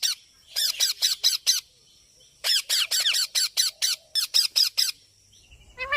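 Pet parrot giving quick runs of short, sharp calls, each falling in pitch: one call at the start, a run of five about half a second in, then a longer run of about ten from about two and a half seconds in.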